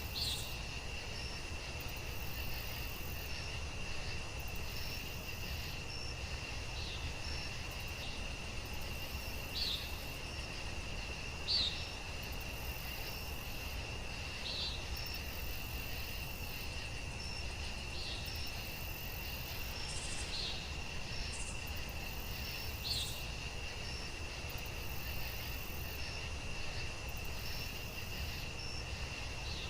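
Night-time nature ambience: insects trilling steadily at one high pitch, with short high chirps every few seconds over a low rumble.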